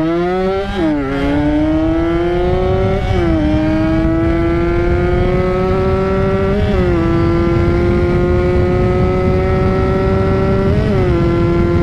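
Two-stroke motorcycle engine accelerating hard at high revs. The pitch climbs steadily through each gear and drops sharply at four upshifts: about a second in, around three seconds, near seven seconds and near eleven seconds.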